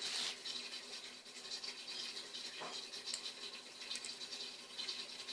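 Small plastic toy parts handled and fitted together: light scratching and rattling, with a couple of faint clicks about three and four seconds in.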